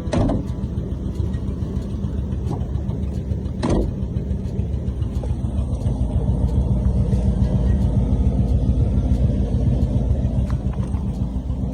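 A flathead V8 in a classic car running steadily with a low, even rumble, growing louder from about six seconds in. There is a sharp knock right at the start and another about three and a half seconds in.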